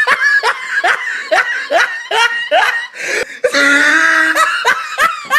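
A person laughing hard: a run of short high-pitched bursts, about two or three a second, then one long drawn-out laughing wail, then a few more bursts near the end.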